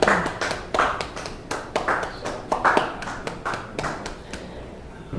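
Scattered applause from a small audience, a few people clapping unevenly, thinning out and stopping about four seconds in.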